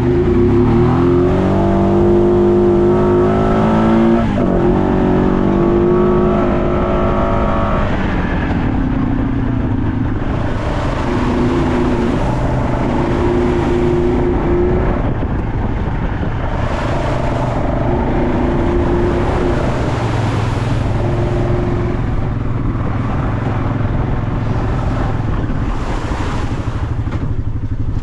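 Off-road vehicle engine under load on a trail, revving up at the start with a sharp drop in pitch about four seconds in, then pulsing up and down as the throttle is opened and closed.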